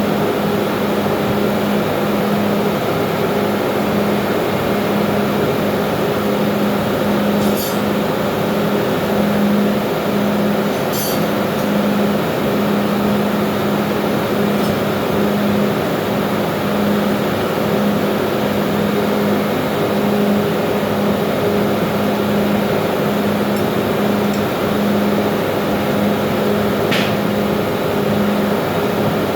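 Loud, steady machinery noise of a ship's engine room, with a hum that wavers on and off. A few sharp clicks stand out, twice early on and once near the end.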